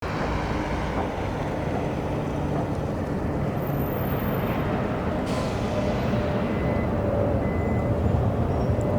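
Jet engines of a Boeing 777 running, a steady loud rumble that grows slightly louder toward the end.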